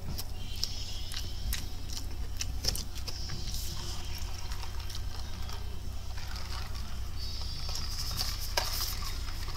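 Close-up mouth sounds of a person chewing fried chicken: scattered wet clicks and soft squishy noises over a steady low hum.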